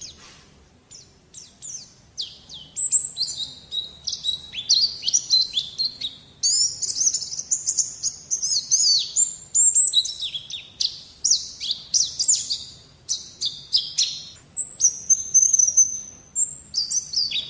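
White-eye (pleci) song: a fast, high twittering of chirps and trills, soft for the first couple of seconds and then louder and nearly continuous. It is a masteran recording for coaxing young white-eyes to sing.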